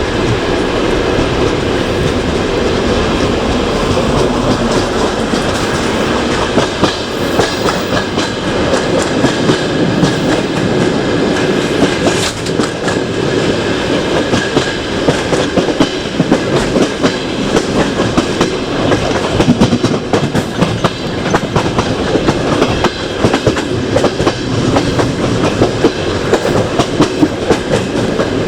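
Passenger train coach running along the track: a steady rolling noise with the clickety-clack of wheels over rail joints, heard at a coach window. The knocks grow sharper and more frequent in the second half.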